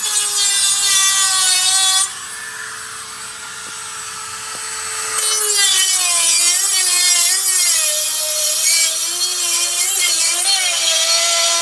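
A power tool's motor running with a loud rasping cutting noise, its pitch sagging and wavering as it works under load. The cutting noise eases off about two seconds in and picks up again about five seconds in.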